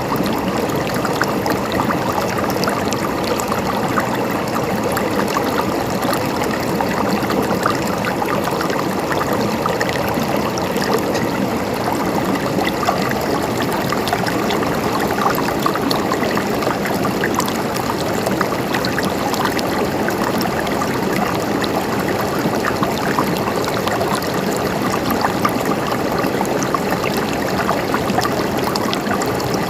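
A river's water running steadily over stones, a continuous rushing flow with many small splashes and trickles.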